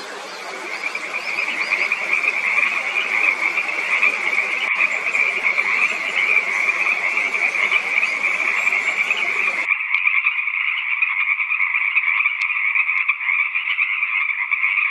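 A dense chorus of many frogs calling at once, steady and continuous. About two thirds of the way through, the low background hiss drops out while the calling goes on.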